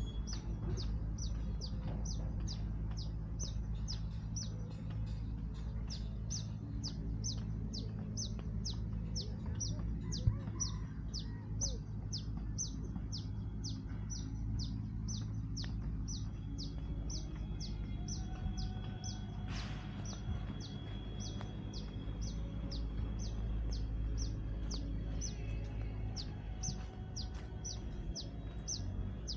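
A bird repeating a short, high, falling chirp over and over at an even pace, about two to three a second, over a steady low rumble.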